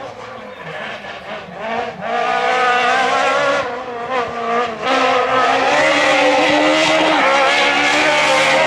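Group F2000 rally car's naturally aspirated engine revving hard through the gears, with short dips in pitch at each shift. It grows loud about two seconds in and holds a high, steady flat-out note from about five seconds in.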